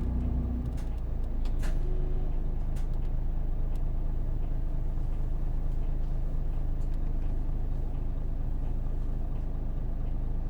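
Interior running sound of a Hino KV234 city bus under way: its Isuzu 6HK1 inline-six diesel runs steadily under the road and body noise. The engine note changes about a second in, and a few sharp clicks sound in the first three seconds.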